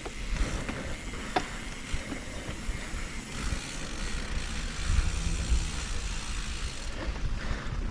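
Mountain bike rolling along a dirt trail: a steady rumble of tyres and rattling bike parts, with one sharp click about a second and a half in.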